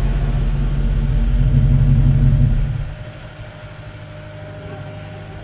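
A vehicle's engine running with a steady low rumble, swelling slightly before dropping away sharply about three seconds in, leaving a fainter background hum.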